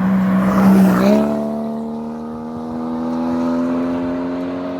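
Rally car engine running hard as the car goes past, its pitch stepping up about a second in and then climbing slowly as it accelerates.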